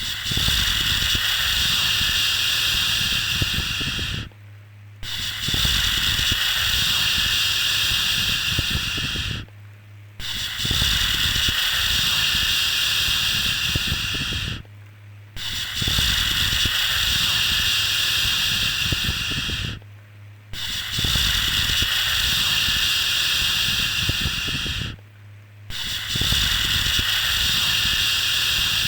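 Repeated long "shhh" shushing sounds for soothing a baby, each lasting about four and a half seconds with a short pause between, about six in all. A steady low hum runs underneath.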